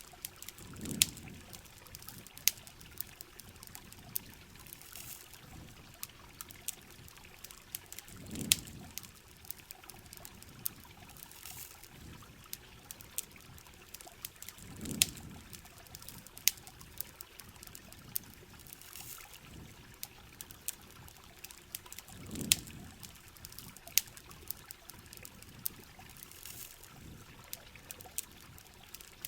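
Rain with trickling, pouring water, and scattered sharp crackles and pops from a campfire. A low swell of pouring water comes back about every seven seconds.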